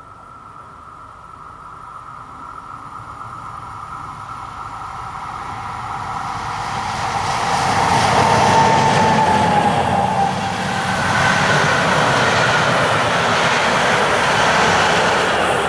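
A passenger train approaching and passing on the line. It grows steadily louder over about eight seconds, then stays loud with the rumble and hiss of the train going by. A thin whine, falling slightly in pitch, comes near the loudest point.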